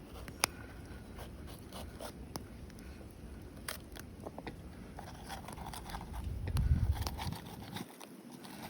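Knife cutting a red bell pepper into chunks on a board, with scattered crisp clicks and scrapes. A louder low rumble comes about six and a half seconds in.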